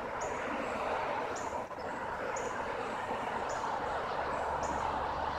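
A small bird calling a high, thin chip note, repeated about once a second, over a steady hiss of outdoor background noise.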